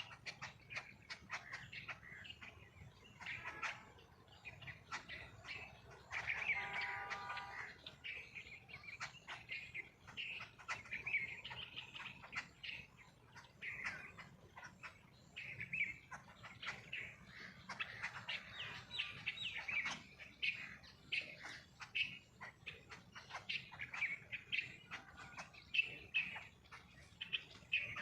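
Small birds chirping and twittering continuously in quick, overlapping bursts. A louder, more drawn-out call stands out about six seconds in, and a fainter one near the end.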